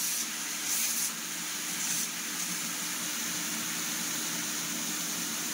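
Wet masala paste of ground tomato, onion and mustard seed sizzling and bubbling in hot mustard oil in a kadai, a steady frying hiss with a couple of brief louder spits in the first two seconds. A faint steady hum runs underneath.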